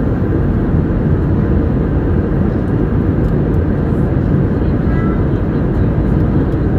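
Steady low rumble of an airliner's jet engines and rushing air, unchanging throughout.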